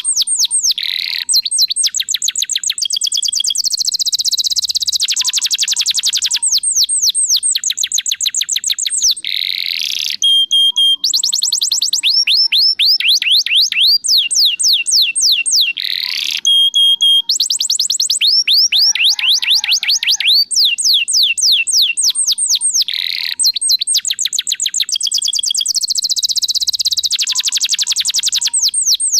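Domestic canary singing without pause: long fast trills of rapidly repeated high falling notes, switching between rolls and buzzy sections, with a few short pulsed whistles in between.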